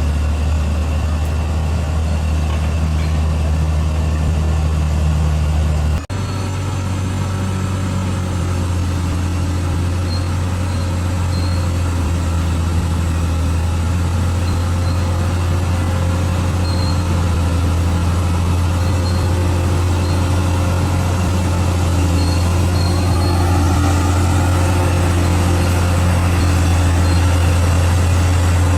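Bulldozer's diesel engine running steadily with a low drone. It breaks off for an instant about six seconds in and resumes at a slightly higher pitch.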